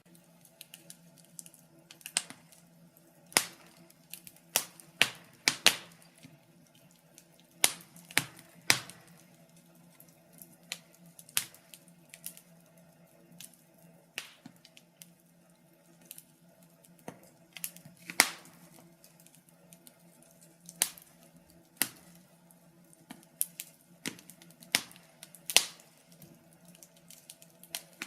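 Wood fire crackling in a fireplace: sharp, irregular pops and snaps from the burning timber, some single and some in quick clusters, with a couple of louder pops.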